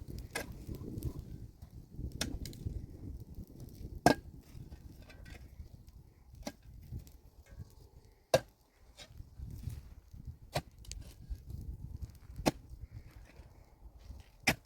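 Sharp blows of a tool on wood, about one every two seconds, two of them much louder than the rest.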